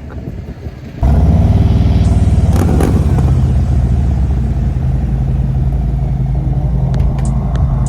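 Harley-Davidson Street Glide Special's V-twin engine running steadily at a low, even pitch, coming in suddenly about a second in.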